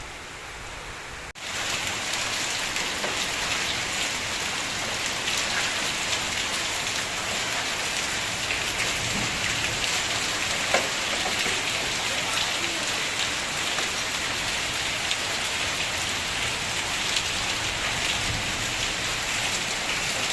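Heavy rain falling steadily, a dense hiss that starts suddenly about a second in.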